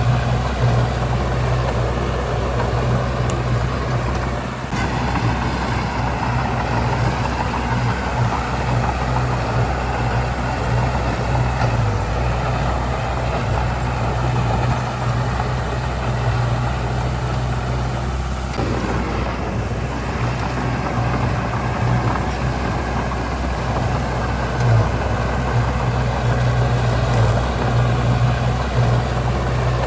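Heavy diesel engine of earthmoving machinery running steadily with a deep hum, its sound shifting slightly a few times as it works.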